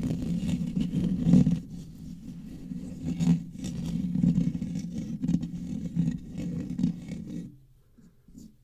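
Scratching and brushing directly on a microphone: a loud, rough, rumbling scrape that stops about seven and a half seconds in.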